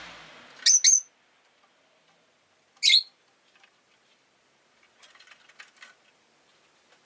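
Rosy-faced lovebird giving short, shrill chirps: two in quick succession about a second in, then a single one near three seconds. Faint scattered clicks follow a couple of seconds later.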